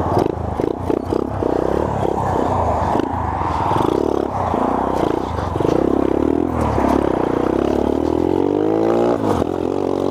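Small Honda 50R dirt bike engine under way, its revs rising and falling in short throttle surges. Near the end it holds one long rising rev that drops off suddenly. Heard through a helmet-mounted microphone.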